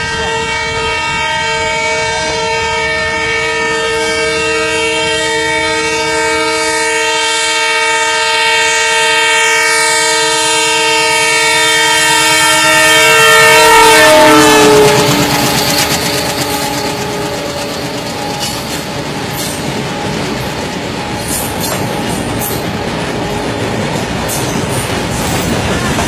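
Indian Railways diesel locomotive sounding one long, multi-tone horn as it approaches, growing louder. About fourteen seconds in it passes and the horn drops in pitch. Then comes the rumble and clickety-clack of a long rake of freight wagons rolling past.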